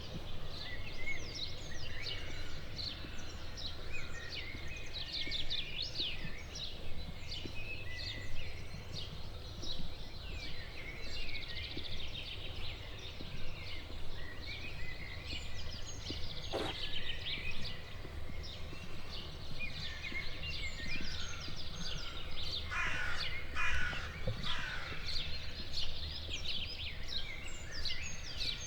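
Several songbirds singing in a morning chorus, with overlapping chirps and quick trills throughout and a dense burst of trilling a little before the end, over a low steady background rumble.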